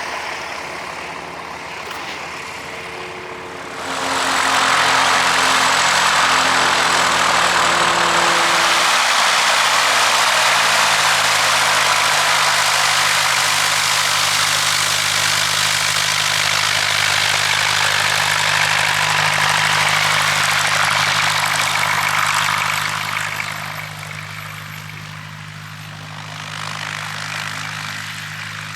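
Propeller airplane's engine running at high power close by: a steady engine hum under a loud rushing noise that comes in suddenly about four seconds in, holds for about twenty seconds, then fades.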